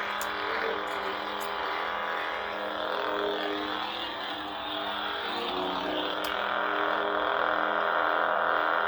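Lightsaber sound board playing the lit blade's idle hum through the hilt's small speaker: a steady buzzing drone whose pitch shifts slightly about halfway through, with a few faint clicks.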